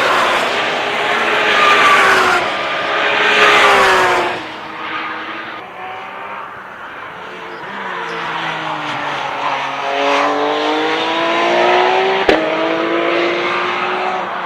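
Porsche 911 GT3 Cup race cars' flat-six engines at high revs, loud and falling in pitch as they go by in the first four seconds, then fading. From about halfway, engines are heard again with revs climbing steadily under acceleration, and a single sharp crack about twelve seconds in.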